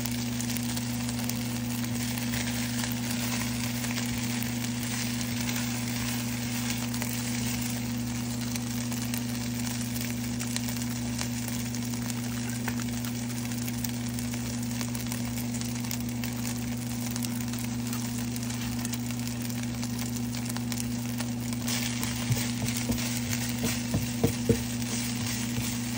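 Shredded chicken sizzling and frying in a nonstick skillet over a steady low electrical hum. Near the end come a few sharp clicks of tongs against the pan.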